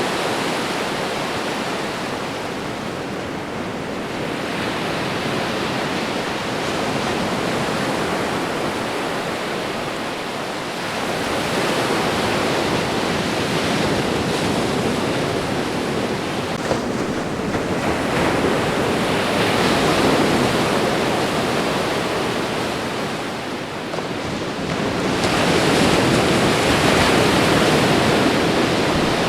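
Ocean waves washing onto a shore: a continuous rush of surf that swells and eases every several seconds, with a bigger wave coming in about 25 seconds in.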